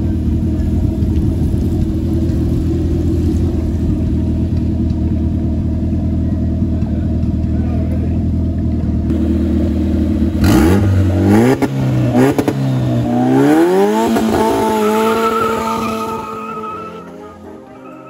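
Turbocharged Toyota 5A four-cylinder engine idling steadily. About ten seconds in it is blipped several times and then revved up in a longer climb, held at high revs, and fades away near the end.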